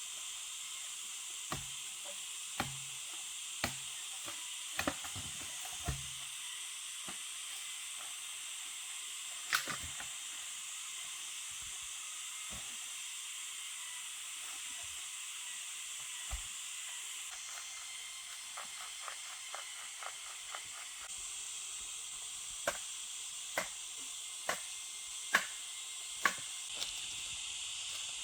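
A steady high hiss throughout, with sharp knocks about once a second over the first six seconds and scattered clicks and knocks after that.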